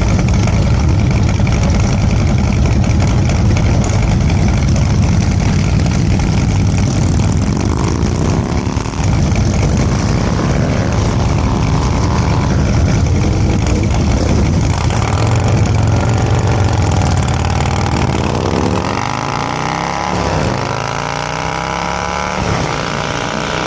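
Motorcycle engine running on the road, a steady low rumble under a hiss, its pitch rising and falling in swells about eight seconds in and again near the end, where the rumble thins.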